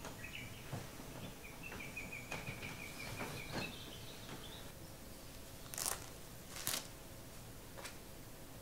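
A bird chirping in quick repeated notes through the first few seconds, over the soft rustle of bedding as a man sits up in bed. About six and seven seconds in come two short scratchy sounds.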